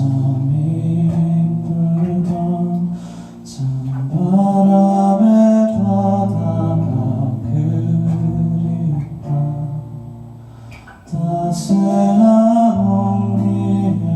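Live indie band playing a slow song, with guitars, bass guitar and occasional cymbal strokes. The music eases down twice before building back up.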